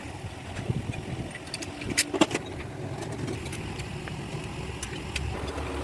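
Metal clinking a few times, the loudest about two seconds in, as parts are handled during an engine rebuild, over a steady low rumble.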